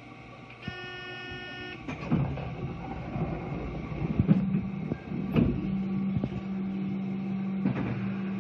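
Electric commuter train standing at a station platform: a short pitched electronic tone about a second in, then knocks and rattles and a steady low hum from the train's equipment.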